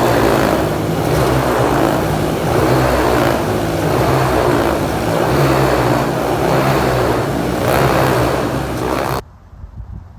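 Motorcycle engine running under way, its pitch wavering up and down a little, over a heavy rush of wind noise. It cuts off suddenly near the end, leaving only a faint low rumble.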